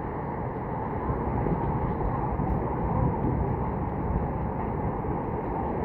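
Steady rain, an even rushing noise with no distinct drops or breaks.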